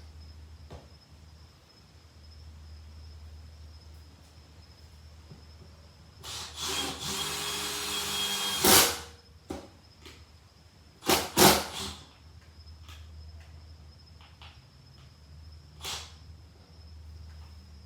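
A 12V cordless impact driver runs briefly for about two and a half seconds, starting a long wood screw, over a steady low hum. This is followed by a few short, sharp knocks and bursts.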